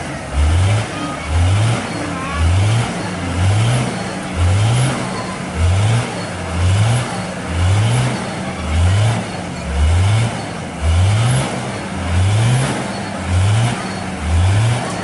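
Heavy truck engine running, with a loud low throb that rises in pitch and repeats evenly about every three-quarters of a second over a steady hum.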